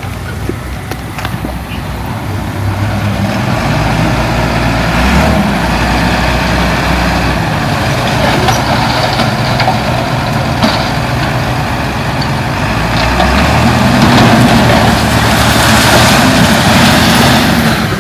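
Heavy diesel engine of earthmoving machinery running under load, its level and pitch rising and falling, loudest in the last few seconds.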